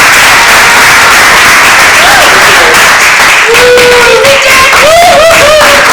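Audience applauding, a loud, dense clapping, with a few voices calling out over it in the second half.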